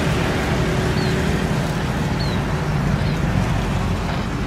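Steady rumble of airliner engines, easing slightly near the end, with three short high chirps over it.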